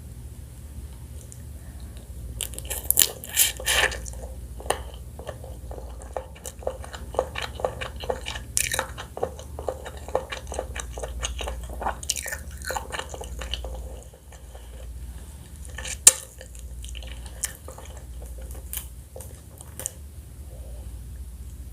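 Close-miked eating of pickled blue crab: biting, chewing and sucking with wet crunches and crackling clicks, busiest in the first half, and one sharp crack about 16 seconds in.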